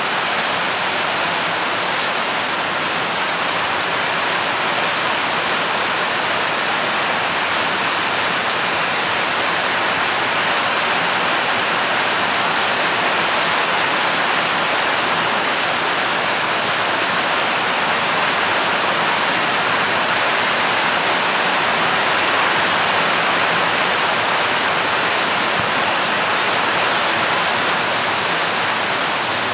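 Heavy rain pouring onto a flooded road: a steady, dense hiss of drops splashing on the standing floodwater.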